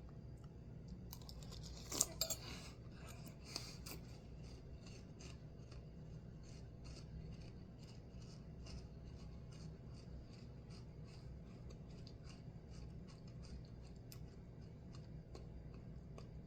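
Crunchy chewing of dry Froot Loops cereal, eaten without milk, in an even run of crunches about three a second. A few louder sharp clatters and rustles come about two seconds in.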